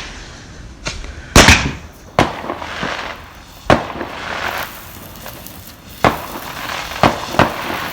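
Backyard consumer fireworks going off: a string of about seven sharp bangs and pops, the loudest about a second and a half in, with crackling hiss between them.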